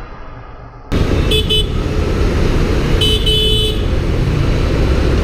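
Loud steady road and wind noise from moving traffic starts abruptly about a second in. Over it a vehicle horn sounds a quick double toot, then a longer blast a little under two seconds later.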